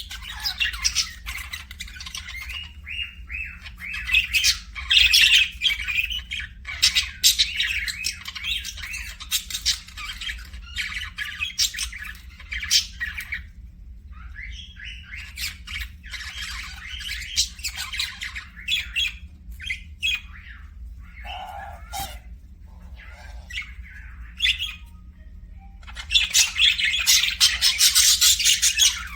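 A group of small pet parrots, such as budgies, chirping and squawking in a busy, overlapping chatter. It is loudest a few seconds in and again in a dense spell near the end.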